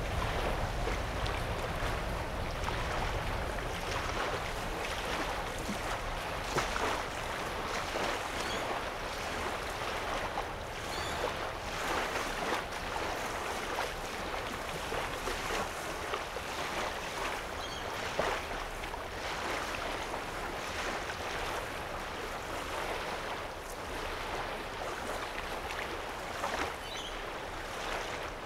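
Small wavelets lapping against a sandy lake shore, in a steady wash broken by irregular little splashes.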